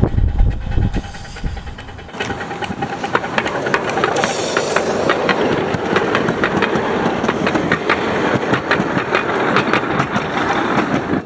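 1/8 scale miniature ride-on train running on its track, the wheels clicking rapidly over the rail joints from about two seconds in, with a brief hiss about four seconds in.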